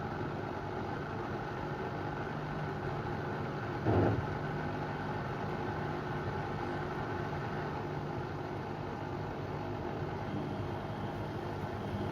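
Beko WM74135 washing machine running a load of heavy door mats: a steady motor hum, with one dull thump about four seconds in.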